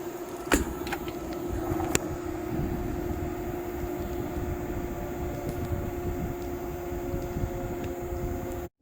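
Mabru 14,000 BTU 12-volt rooftop RV air conditioner running steadily in cooling mode, a constant hum with a held tone over a low rumble. Two sharp clicks come about half a second and two seconds in.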